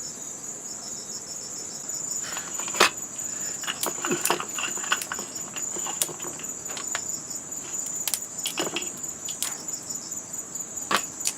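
Steady high-pitched insect chorus, with scattered sharp clicks and snaps from about two seconds in.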